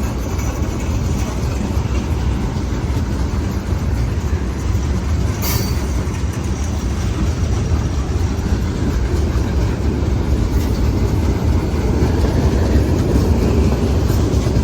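Freight train's tank cars rolling past, a steady rumble of steel wheels on the rails with a single sharp click about five and a half seconds in.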